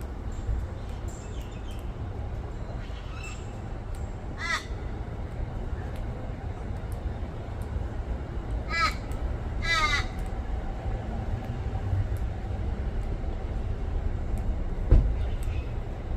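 Crow calling: three harsh, drawn-out caws, one about four and a half seconds in and two close together around nine to ten seconds, over a steady low rumble. A single short thump comes near the end.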